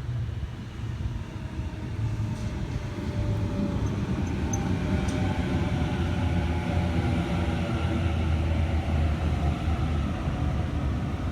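Sydney Trains Waratah (A set) electric train pulling into the platform: a steady rumble of wheels and motors that builds about a second in and holds, with faint whining tones above it.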